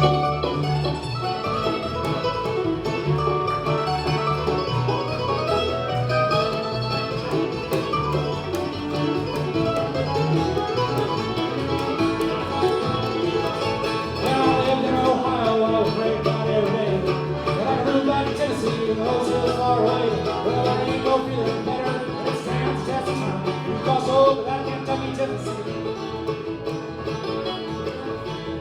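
Bluegrass band playing live, with banjo and guitar picking over a bass line. The music starts suddenly at the beginning and carries on as an instrumental lead-in without singing.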